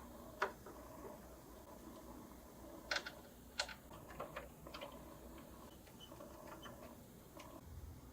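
A few sharp clicks and light taps at irregular moments, clustered in the middle, over quiet room tone: small tools and parts being handled during restoration work on a cello.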